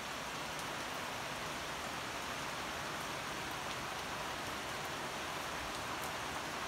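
Steady heavy rain falling on garden foliage and a paved path: an even hiss with a few faint, sharp drip ticks.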